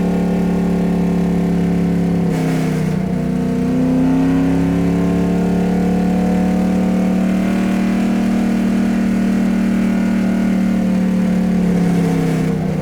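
Vehicle engine running steadily; about two seconds in its pitch climbs a little and holds at the higher speed, then falls back near the end.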